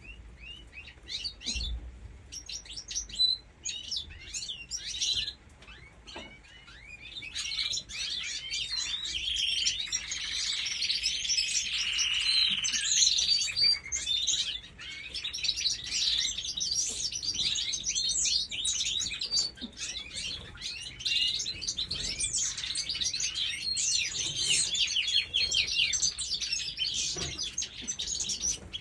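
Many small birds chirping and twittering at once in quick, high, overlapping calls. The calls are sparse at first and thicken into a dense chorus about seven seconds in.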